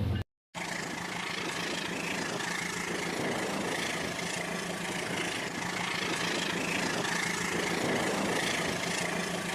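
Battery-powered toy train's small electric motor whirring steadily as the train runs along its plastic track, starting just after a brief gap.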